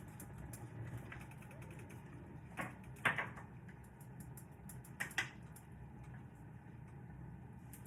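A cooking utensil knocking against a pot, with a few sharp knocks about three and five seconds in, over a steady low hum.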